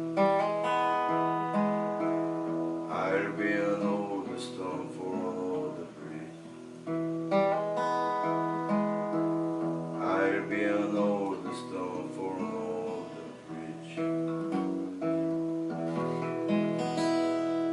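Acoustic guitar strumming chords and letting them ring, the chords changing every second or two.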